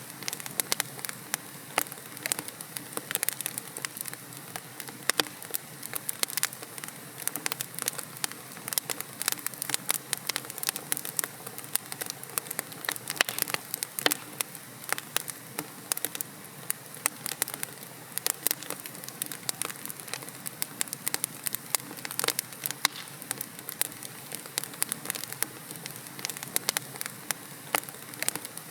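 Wood fire crackling: logs burning in a fireplace, with dense, irregular pops and snaps over a steady soft hiss.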